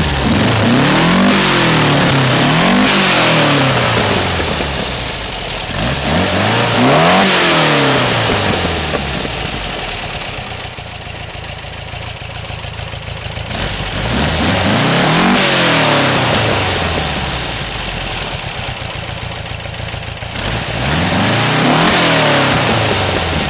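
2000 cc air-cooled Volkswagen flat-four with big-valve heads, from a 1976 VW bus, revved about five times, its pitch rising and falling each time, and running at a steady idle between the revs.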